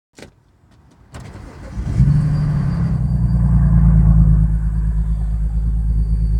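BMW 335i's turbocharged straight-six starting from cold: a click, about a second of cranking, then the engine catches about two seconds in and settles into a steady idle with a thin high-pitched screech over it. The screech on startup is part of a cold-start fault that also brings misfiring and heavy fuel use.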